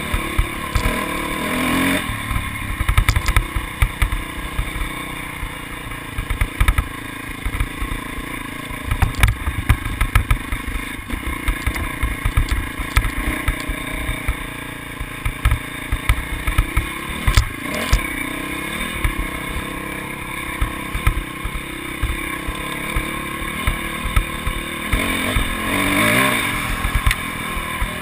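Motocross motorcycle engines running and revving, with frequent low thuds on the microphone. Near the end one engine's pitch swings up and down as it is revved.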